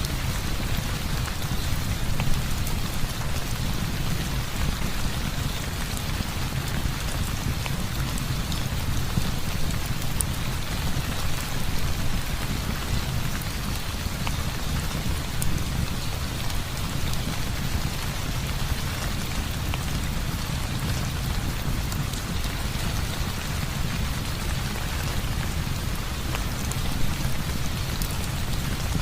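Heavy rain falling steadily, with a deep steady rumble underneath and occasional faint sharp ticks.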